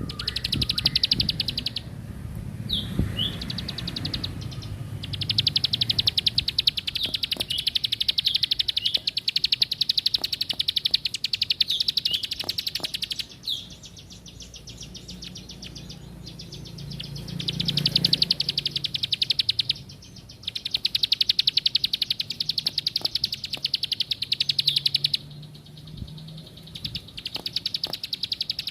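Ciblek sawah, a prinia, singing in full voice: long, very rapid high-pitched trills lasting several seconds each, broken by short pauses.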